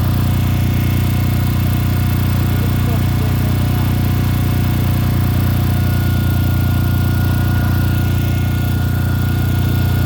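A machine engine or motor running steadily, a low even drone that holds the same pitch and level throughout.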